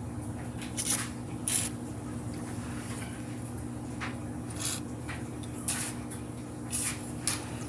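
Aerosol can of PB Blaster penetrating oil sprayed in about six short hissing bursts over a steady low hum.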